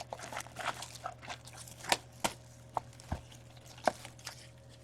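Scattered light taps and soft rustles of trading cards and a cardboard box being handled on a table, over a faint steady electrical hum.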